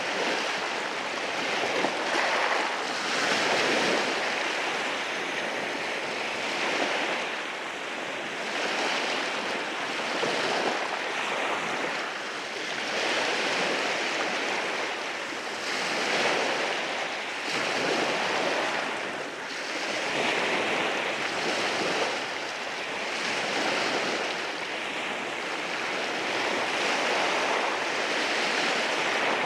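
Waves washing in over rocks at the shore, a continuous rushing that swells and eases every few seconds as each wave breaks and draws back.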